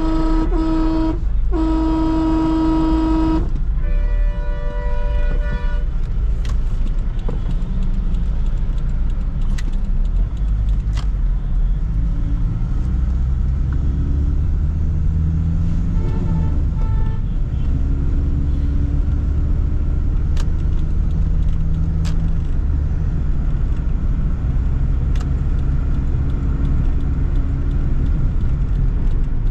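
Car horns honking in traffic: two long blasts from one horn in the first few seconds, then a higher-pitched horn for about two seconds, and a couple of short toots about halfway through. Under them, the steady low rumble of a moving car's engine and road noise.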